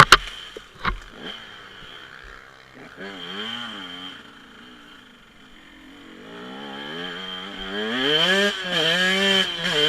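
Dirt bike engine revving up and down as it is ridden, its pitch rising and falling with the throttle; it fades away mid-way and grows louder again over the last few seconds. Two sharp knocks sound right at the start and about a second in.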